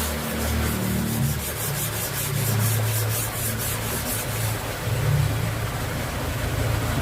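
Rapid rhythmic rubbing of an abrasive on the steel knife blade, about five strokes a second, stopping about four and a half seconds in, over a steady low hum.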